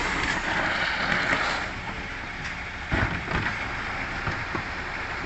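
Garbage truck running during collection, with a hissing rush in the first couple of seconds and a few knocks about three seconds in.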